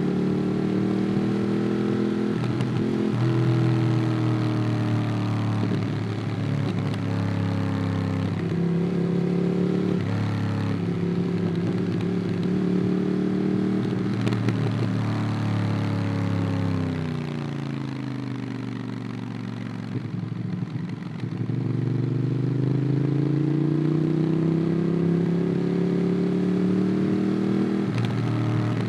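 Ducati Monster 821's L-twin engine through a QD Twin Gunshot aftermarket exhaust, heard onboard while riding. It pulls steadily with a few brief breaks for gear changes. About two-thirds of the way through, the engine note falls as the bike slows, then climbs again as it accelerates.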